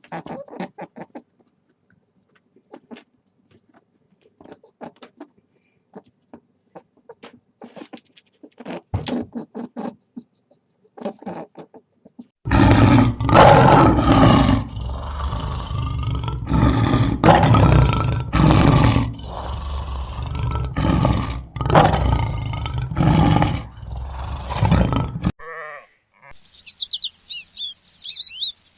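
A run of animal sounds: faint scattered clicks and short noises, then a long loud stretch of repeated pitched animal calls, then high bird chirps near the end.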